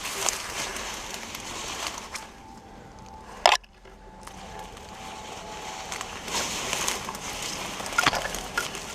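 Footsteps crunching and crackling through dry leaves and twigs on a forest floor, with one sharp loud click about three and a half seconds in.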